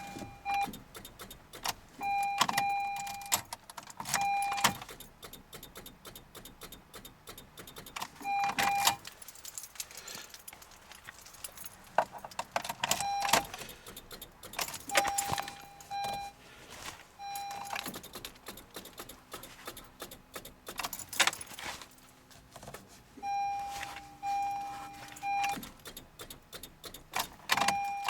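A Honda CR-Z's warning chime beeping in short bursts of one to three high beeps, over fast, irregular metallic clicking, as the car fails to start in −30 °C cold.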